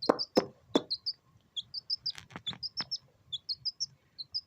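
Domestic chicken chick peeping: short, high cheeps several times a second, with a few sharp taps in the first half.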